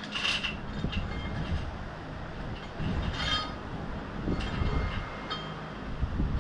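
Several light metallic clinks and rattles of a go-kart roller chain being handled, over the steady hum of a running fan.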